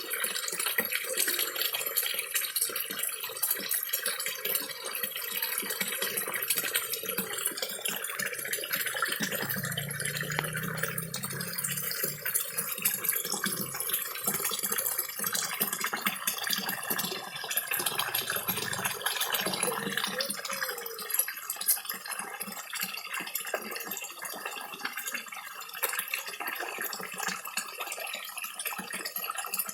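Small garden waterfall trickling steadily into a koi pond, with the small splashes and slurps of koi feeding at the surface.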